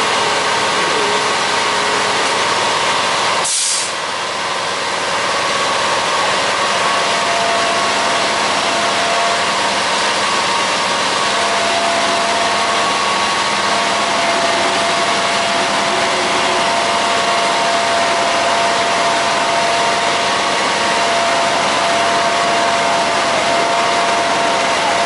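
Road-construction machinery engine running steadily, with a brief drop in the sound about three and a half seconds in.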